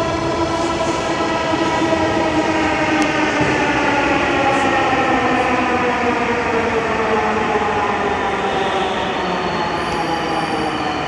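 Dhaka Metro Rail electric train's motors whining, a chord of several tones falling slowly in pitch as the train slows down, with a faint high whine coming in near the end.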